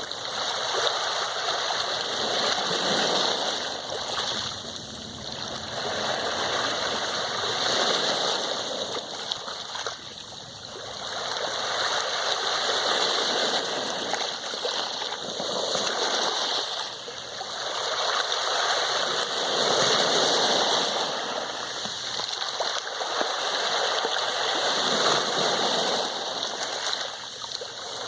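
Sea waves washing in, a continuous rush that swells and fades in slow surges every four to six seconds.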